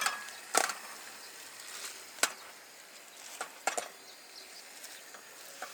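Cooking or eating utensils tapping and clicking in a few sharp, separate knocks over a faint steady hiss.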